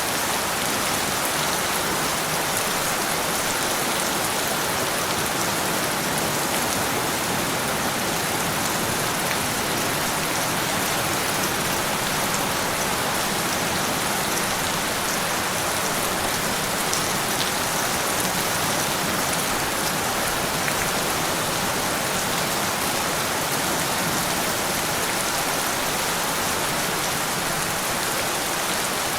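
Steady rain falling and pattering on a surface, a dense even hiss with fine scattered drops.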